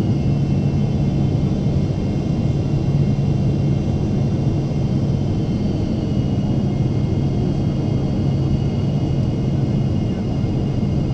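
Steady cabin drone of a Boeing 777-300ER with its GE90 jet engines running: a low, even hum under a faint high engine whine, with no change in level.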